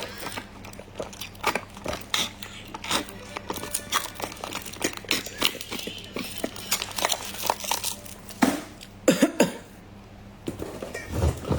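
Plastic packaging being handled: quick crinkling rustles and small clicks throughout, with a few louder bursts about nine seconds in.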